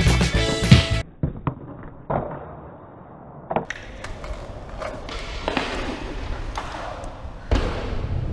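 Guitar music stops about a second in. Skateboard sounds follow: a few sharp clacks of the board striking concrete, then polyurethane wheels rolling on pavement, and a thud near the end.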